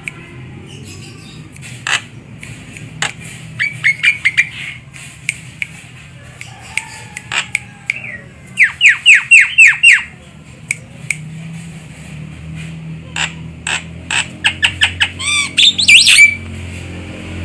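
Javan myna calling: runs of rapid, sharp falling chirps and harsh squawks in several bursts, with scattered clicks between them over a low steady hum.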